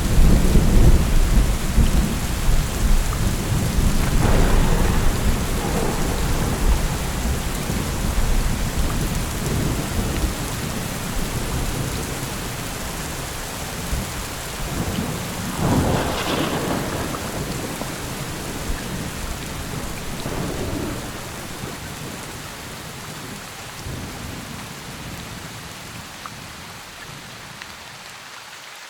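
Steady rain with thunder. A loud rolling rumble at the start dies away slowly, with two shorter rumbles, one about four seconds in and one past halfway, over the constant hiss of the rain.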